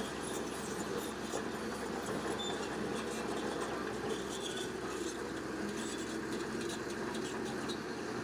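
Bulldozer working: a steady machine din with faint scattered clicking and clanking over it.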